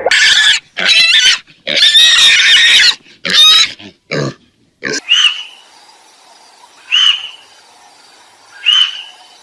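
Animal calls: loud, harsh squealing through the first half, then three short high calls about two seconds apart over a faint hiss.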